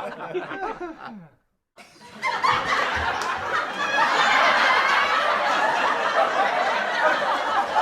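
Human laughter: laughing that cuts off abruptly about a second and a half in, then after a brief silence a dense, steady layer of many overlapping laughs.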